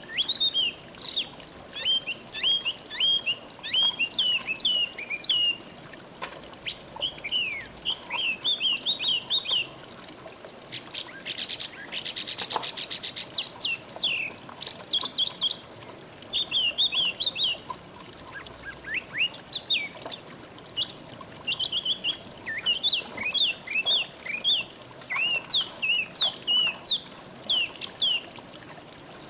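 Songbird song: quick runs of short, sharp chirping notes, with a fast buzzy trill about twelve seconds in, over a steady high hiss.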